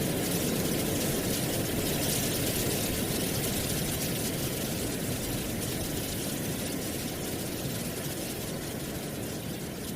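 Wind blowing through trees with a steady rustle of dry leaves over a low wind rumble, easing slightly in the second half.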